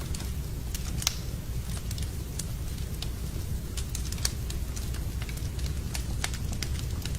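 Wood fire burning in a fireplace, crackling with irregular sharp pops over a steady low rumble; two pops stand out, about a second in and past the four-second mark.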